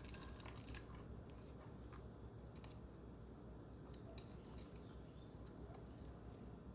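Faint clicks and taps of small parts being handled on a workbench during the first second, then low room tone with a few scattered light ticks.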